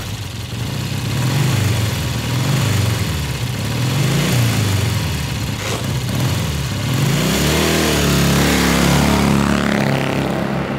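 Motorcycle engine revving: the throttle is blipped several times so the pitch swings up and down, then it climbs and holds higher for the last few seconds.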